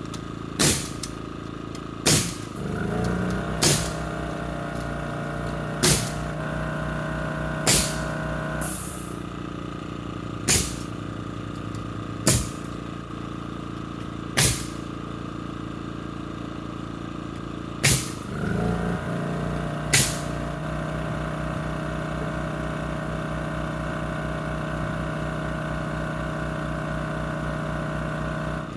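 A framing nail gun firing about ten times, a sharp crack every two seconds or so, as boards are nailed onto roof joists. Between the shots a motor-driven air compressor runs with a steady hum, starting a couple of seconds in, stopping near the middle and starting again later.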